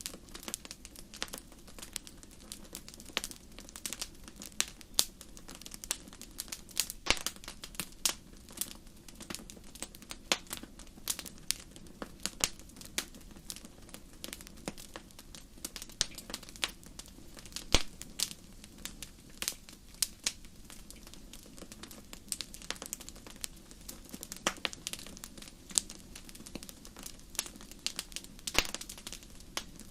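Wood fire crackling: irregular sharp pops and snaps, several a second, some much louder than the rest, over a faint steady low rush of the flames.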